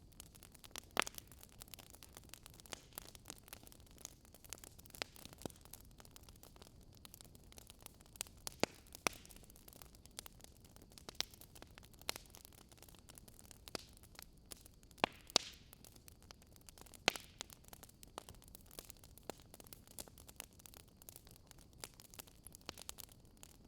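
Burning firewood crackling: irregular sharp pops and snaps over a soft, steady hiss, with a few louder pops now and then.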